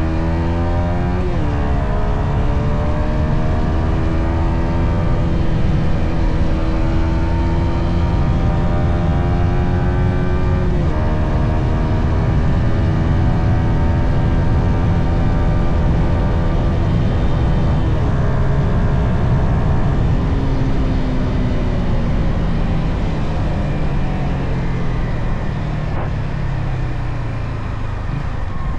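Yamaha XSR 155's single-cylinder engine through its stock exhaust, accelerating up through the gears: the pitch climbs and drops back with upshifts about a second in, around eleven seconds and around eighteen seconds. After that the engine note falls steadily as the bike slows.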